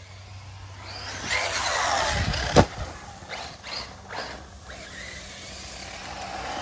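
RC racing buggy driving hard, its motor and drivetrain whining louder for a second or so, then a hard landing thump about two and a half seconds in, followed by a few smaller knocks as it bounces and rolls on.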